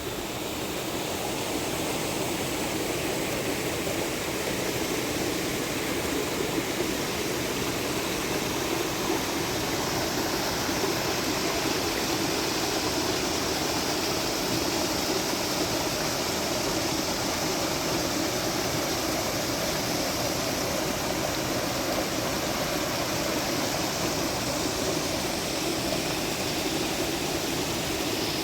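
Steady rush of flowing water, growing louder over the first couple of seconds and then holding even.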